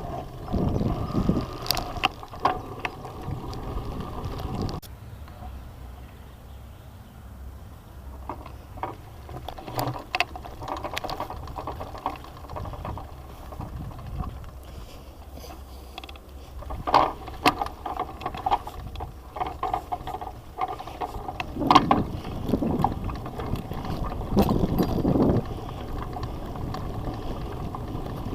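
Bicycle being ridden on a forest track: wind rumbling on the microphone, with scattered clicks and rattles from the bike. The rumble is heavy at the start, eases after about five seconds, and swells again about three-quarters of the way through.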